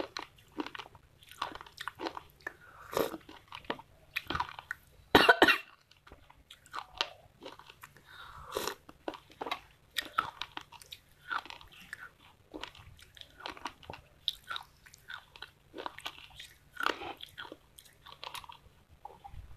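Close-up mouth sounds of eating a thick wet clay paste off a spoon: rapid wet smacking and chewing, with a louder burst about five seconds in.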